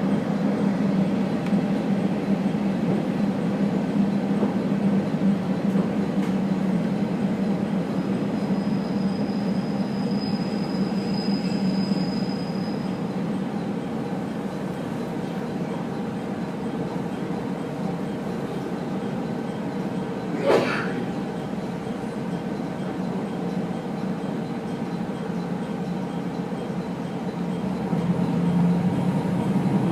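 Steady running noise heard from inside a train carriage, a low hum under a noisy rumble. A faint high squeal comes from about 9 to 13 seconds in, and a brief sharp squeal about 20 seconds in.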